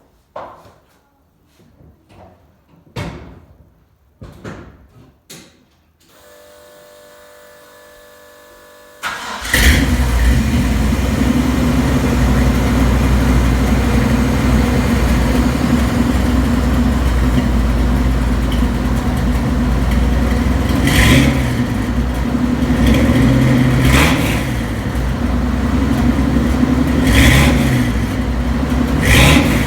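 A few knocks and clicks, then a starter cranks for about three seconds, and the big-block V8 of a 1984 K30 off-road truck catches about nine seconds in. It then idles loudly through a 2.5-inch exhaust with cheap chambered mufflers, with several short revs near the end.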